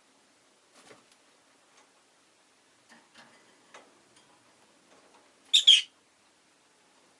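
Rosy-faced lovebird giving a loud, high double chirp about five and a half seconds in, among faint scattered clicks and taps.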